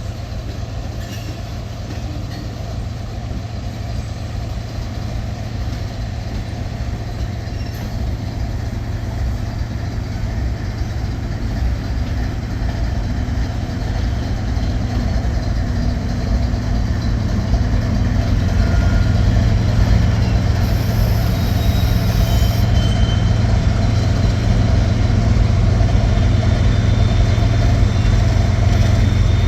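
Diesel freight locomotives running with a steady low engine rumble that grows gradually louder, most clearly in the second half.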